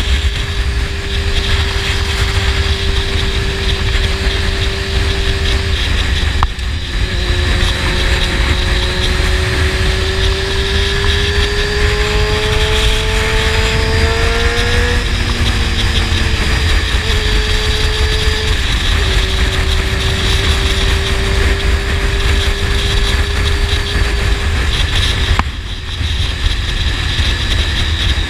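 Honda CBR600 inline-four sport bike with a slip-on exhaust, heard from the rider's position as it cruises at steady revs. Around the middle the engine pitch climbs under acceleration, then drops at a gear change, with brief dips near the start and near the end. A heavy low wind rumble sits under the engine note.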